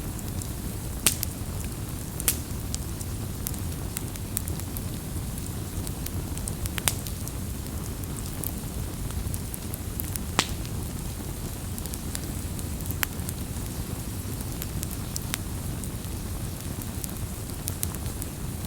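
Wood fire burning with a steady low rumble and sharp, irregular crackles and pops from the burning wood.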